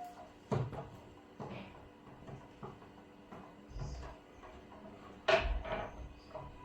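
A few short knocks and clacks of things being handled, like a drawer or cupboard being shut, with the loudest clack about five seconds in, over a faint steady hum.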